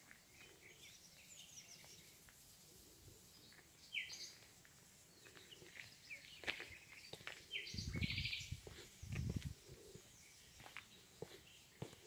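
Small birds chirping, with short calls scattered throughout. Two short low rumbles come near the middle, the louder about eight seconds in.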